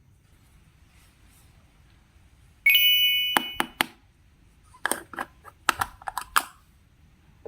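A bright ding rings out about two and a half seconds in and fades over about a second. It is followed by a run of sharp clicks and pops from slime being squeezed and worked by hand, about a dozen over three seconds.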